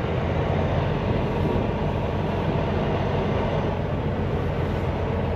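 Semi-truck diesel engine running steadily at low speed as the tractor-trailer creeps slowly.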